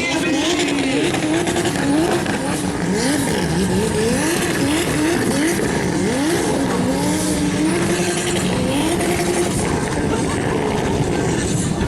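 Turbocharged drift car engine revving hard, its pitch climbing and dropping again and again as the throttle is worked, with a steadier held rev in the middle, over tyre squeal.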